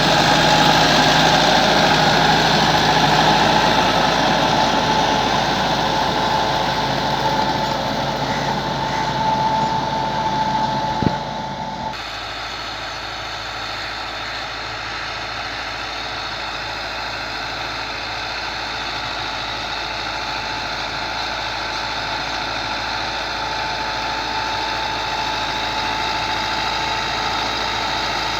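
Massey Ferguson 385 tractor's diesel engine running steadily, with a single knock about eleven seconds in and an abrupt shift to a slightly quieter, thinner sound about a second later.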